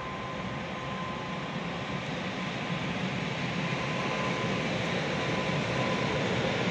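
ET22 electric freight locomotive hauling a train of open coal wagons past, a steady rushing running noise that grows gradually louder as it approaches, with a faint steady whine over it.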